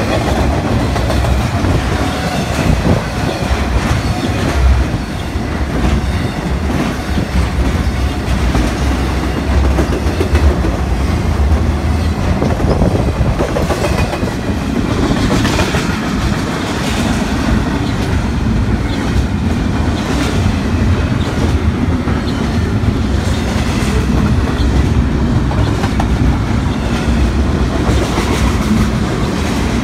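A train rolling steadily past, its wheels clicking over the rail joints.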